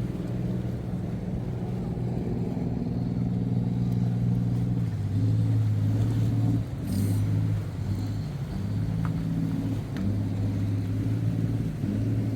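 A motor vehicle's engine running, its pitch stepping up and down several times.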